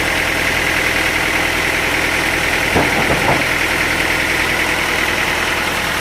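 Sawmill machinery running steadily, with a few knocks about three seconds in.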